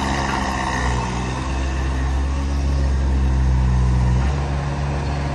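Mini excavator engine running steadily, its note shifting briefly about four seconds in.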